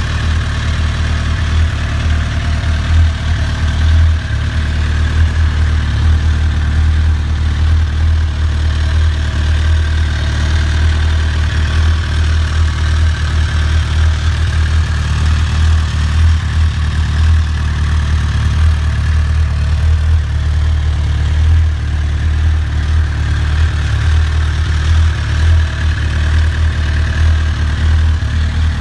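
Suzuki GSX-R1000 (2007) inline-four engine idling steadily through its exhaust, with a deep, even low rumble.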